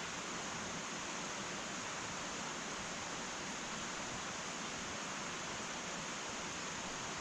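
Wood fire burning in an irori hearth, a steady even hiss.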